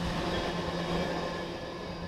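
Freight train of tank cars rolling past at speed: a steady rush and rattle of steel wheels on the rails, easing off slightly toward the end as the tail of the train goes by.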